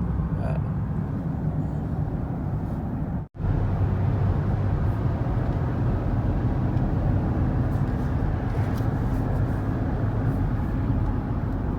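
Steady road and tyre noise heard inside the cabin of a 2019 BMW X5 with a 3-litre diesel, cruising at highway speed. The sound drops out for a moment about three seconds in.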